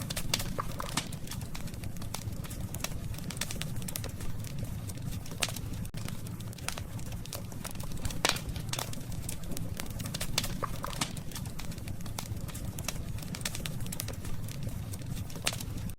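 Burning wood crackling, with frequent sharp pops and snaps over a steady low rumble; one louder pop comes about halfway through.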